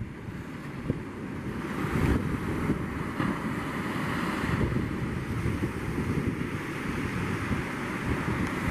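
Surf breaking and washing on the beach, with wind buffeting the microphone; the wash swells about two seconds in.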